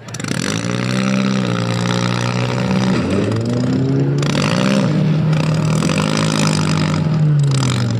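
Demolition derby car engines revving, their pitch repeatedly rising and falling as the cars accelerate and back off, with patches of rougher noise over them.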